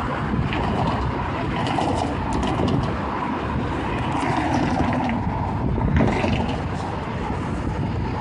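Amtrak passenger train passing a grade crossing: a steady rumble of wheels on rail with scattered light clicks.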